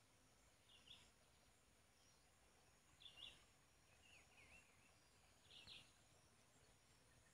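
Near silence broken by four faint, short bird chirps a second or two apart.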